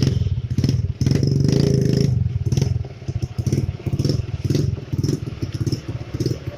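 An engine running loud and close, with a rapid pulsing beat over a steady low hum. It starts suddenly, and there is a short drop just before the one-second mark.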